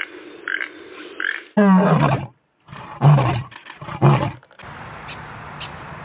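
Lion roaring: one loud call with falling pitch about a second and a half in, then two deep, loud calls about a second apart. Faint short chirps are heard before the roar, and a steady hiss with a few faint clicks follows it.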